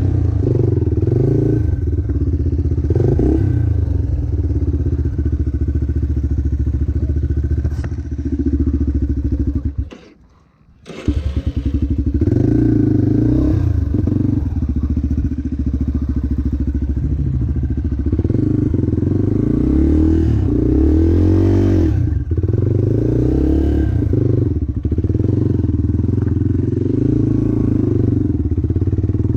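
Motocross bike engine running hard, its pitch rising and falling again and again as it revs and shifts. About ten seconds in, the sound cuts out for about a second, then comes back.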